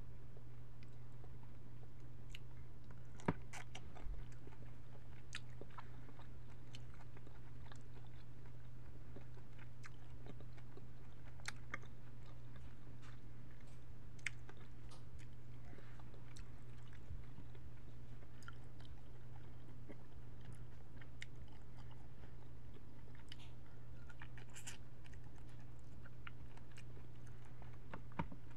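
Close-up chewing of peeled cooked shrimp, wet mouth clicks and smacks scattered through, over a steady low electrical hum.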